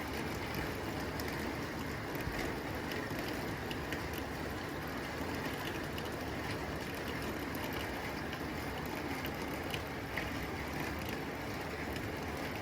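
Steady rain on a tin roof: an even hiss with scattered sharp ticks of drops striking the metal.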